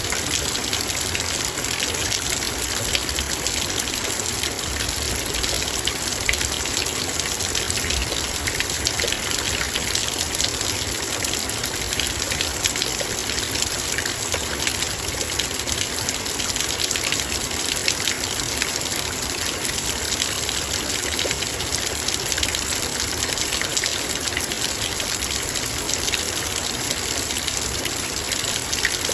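Heavy rain pattering on a metal bowl, a steady dense hiss of drops with countless fine ticks of individual drops striking the metal.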